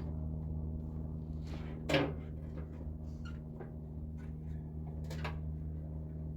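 Scattered knocks and clicks of metal parts being handled while a combination convection microwave is taken apart, with one sharper knock about two seconds in.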